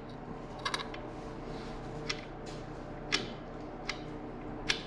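Light clicks and taps of hand tools and metal parts being handled, six or so scattered a second or less apart, over a steady low hum.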